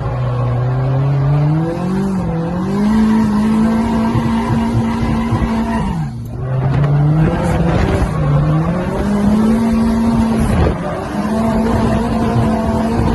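Toyota Supra's 2JZ straight-six engine revving up and held at steady high revs, dropping sharply three times and climbing back each time, over a hiss of tyre noise.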